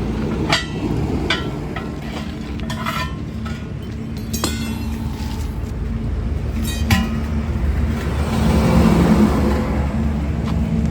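Metal tools clinking and striking against a truck wheel and tyre several times, over a steady low engine hum. A rushing noise swells about eight seconds in.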